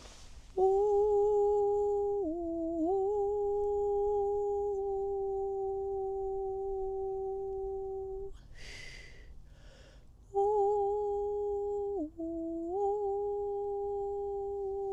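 A woman's voice humming one long, steady note, sung as sound-healing toning, that wavers and dips in pitch briefly a couple of seconds in. Midway she takes an audible breath, then holds the same note again with another short dip near the end.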